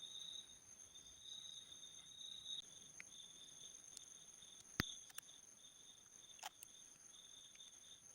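Near silence: faint room tone with a steady high-pitched whine, and two sharp clicks, one about five seconds in and one about six and a half seconds in.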